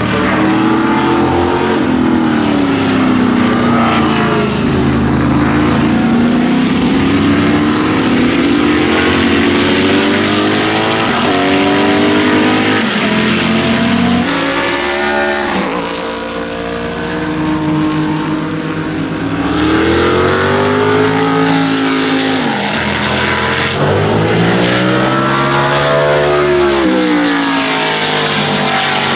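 Shadow Can-Am race cars' big-block V8 engines running hard on track, the pitch climbing and dropping again and again through throttle and gear changes as the cars pass. The sound changes abruptly twice, about halfway and again near the end.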